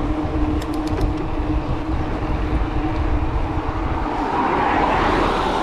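Wind rumbling on the microphone while cycling along a road, with a motor vehicle passing and growing louder near the end.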